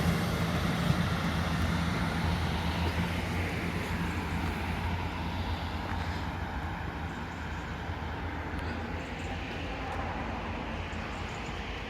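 Train's diesel engine droning steadily, fading gradually as the train recedes.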